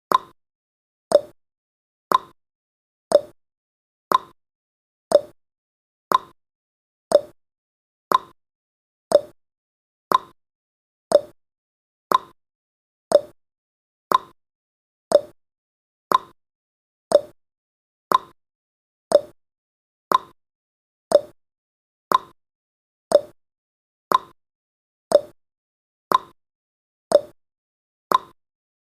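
Clock-style ticking sound effect of a countdown timer: one short, sharp tick every second, perfectly steady.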